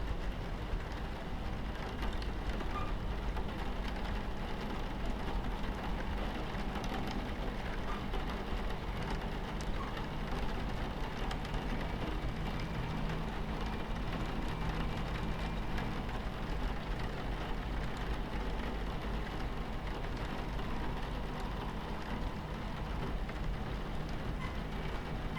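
Steady low rumble of a train running on its tracks, heard from inside the carriage, mixed with rain on the window and scattered faint drop ticks.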